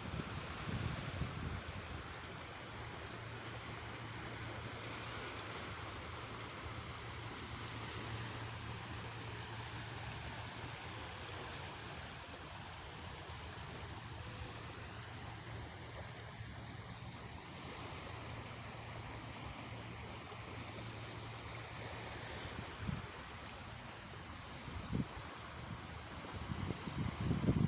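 Sea water washing steadily, with a low steady hum under it for most of the time and a few short low thumps near the end.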